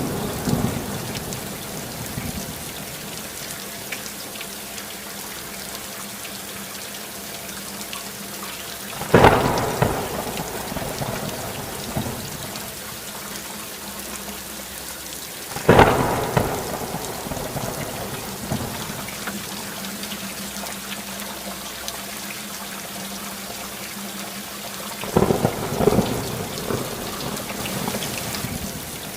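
Steady rainfall with thunder: three sudden thunderclaps, about nine, sixteen and twenty-five seconds in, each fading into a rumble, and the rumble of an earlier clap dying away at the start.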